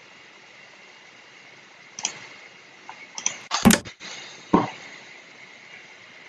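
A handful of short sharp clicks from an online xiangqi game as pieces are moved, the loudest cluster about three and a half seconds in.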